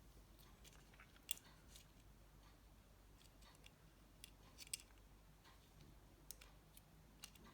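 Faint, scattered small clicks and ticks from plastic and metal mobile-phone parts being handled during reassembly, over near silence.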